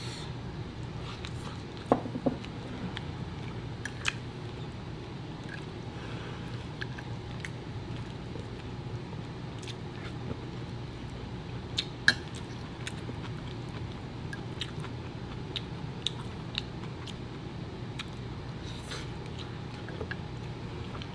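Close-miked mukbang eating: a person chewing food, with a few sharp clicks of a fork against plates and bowls, over a steady low room hum.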